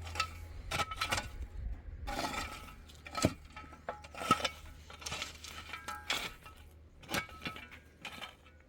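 Hard objects being handled and knocked together: about a dozen irregular clinks and knocks, some leaving a short metallic ring.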